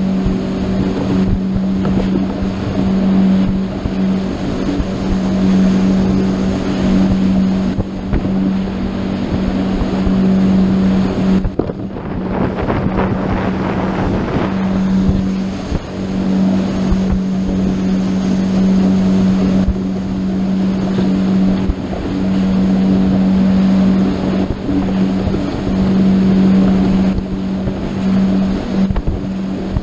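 Motorboat engine running steadily under way, a constant drone over the rush of wind and water, with a louder splash of spray or water about twelve seconds in.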